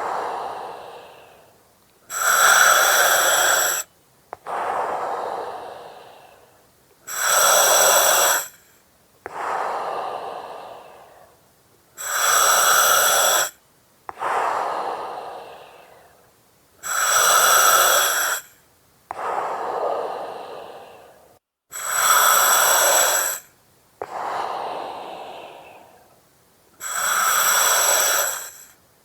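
Slow, steady breathing through an oxygen mask. Each breath is a hissing draw of about two seconds, followed by a softer breath that fades away, and the cycle repeats about every five seconds, some six times.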